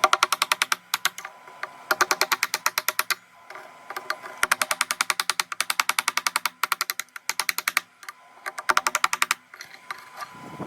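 Rapid, evenly spaced clicking in runs of about a second, roughly ten clicks a second with short pauses between runs, over faint background music.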